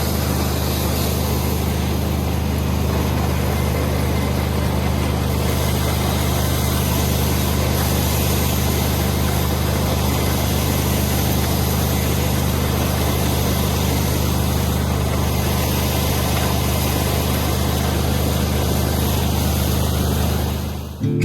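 Combine harvester running steadily: a constant low engine note under a wide, even mechanical noise, cut off just before the end.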